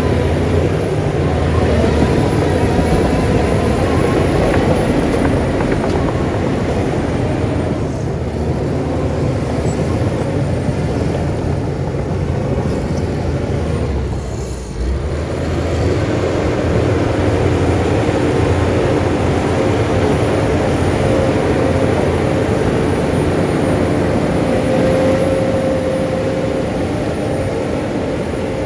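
Heavy diesel earthmoving machinery running steadily under load, with a brief dip in level about halfway through.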